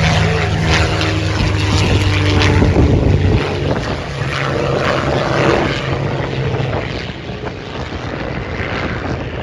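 Propeller aircraft engine drone, a steady low hum that drops away about three and a half seconds in, comes back weaker for a few seconds, then fades.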